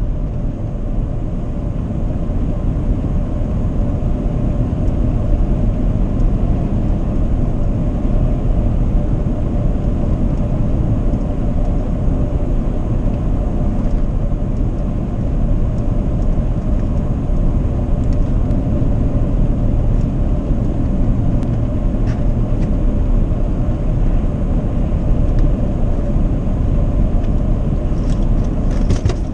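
Truck in motion heard from inside: steady low road and engine rumble with a constant tone, and a few faint clicks near the end.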